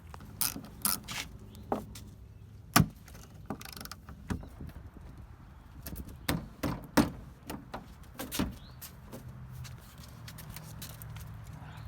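Irregular sharp metal clicks and knocks from tools working on a Jeep Wrangler's door hinges, which are rusted and won't let the door lift off. The loudest knock comes about three seconds in.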